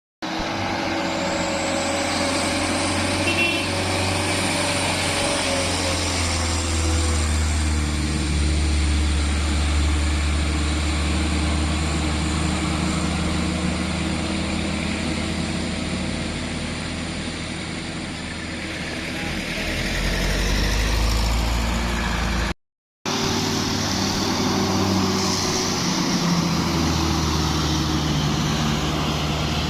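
Heavy truck's diesel engine running under load as it climbs a steep grade, a steady low engine note with a brief dropout about two-thirds of the way through.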